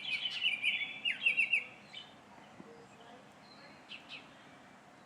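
Songbirds chirping and calling: a busy run of quick notes in the first two seconds, then two short chirps about four seconds in.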